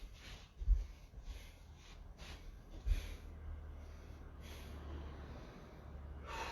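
A person breathing under effort while holding a plank: short, noisy breaths about once a second, the strongest near the end. Two low thumps and a low rumble on the microphone in between.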